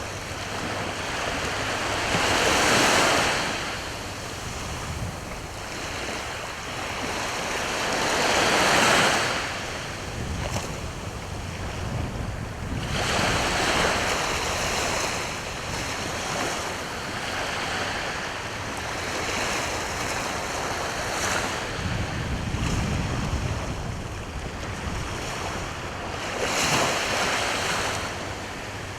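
Gentle sea waves washing onto the shore, the surf swelling into a louder rush every few seconds and falling back, with wind on the microphone.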